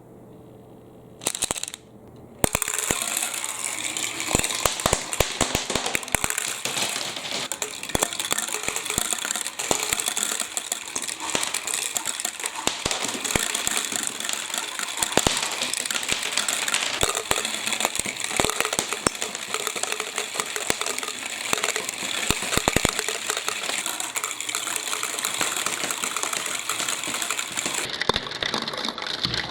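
Water rushing down a plastic block marble run while marbles click and clatter along the tracks. After a short burst, the flow starts in earnest about two seconds in and keeps going, with many sharp clicks throughout.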